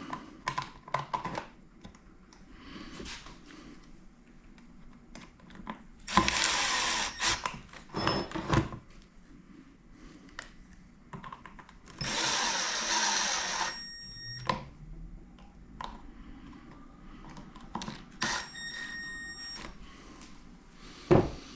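A power tool runs in two bursts of about a second and a half each, about six and twelve seconds in. Around them come scattered clinks and knocks of metal parts, a few of which ring briefly.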